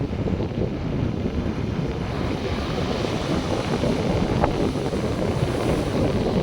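Wind buffeting the microphone over the steady wash of North Sea surf breaking on the beach.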